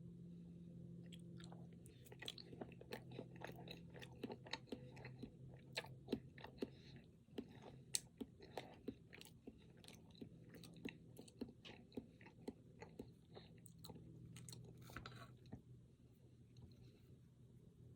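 Close-miked chewing of a chocolate-coated, cream-filled snack cake: many quick wet mouth clicks and smacks, thickest from about two seconds in and dying away near the end, over a low steady hum.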